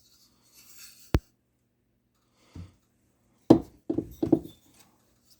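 Metal chainsaw parts (piston, cylinder, muffler) being handled and set down on a bench: a brief rustle, one sharp click about a second in, a single knock, then a quick cluster of knocks and clunks near the end.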